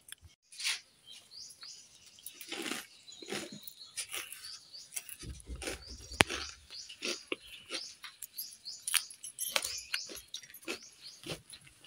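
A person chewing a mouthful of jhal muri, spiced puffed rice, close to the microphone: irregular crisp crunches and mouth clicks, with a brief low rumble about halfway through.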